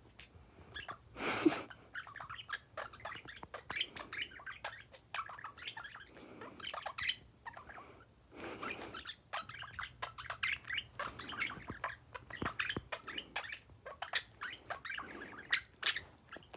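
Pet birds chirping and chattering in a steady stream of short, sharp chirps, with a couple of louder rustling bursts about a second and a half in and about eight seconds in.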